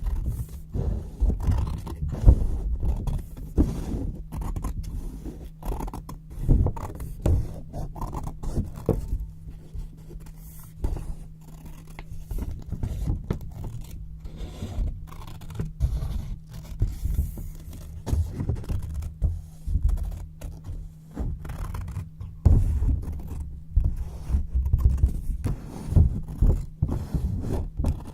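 Scissors cutting white paper close to the microphone: a quick, irregular run of snips and paper scrapes.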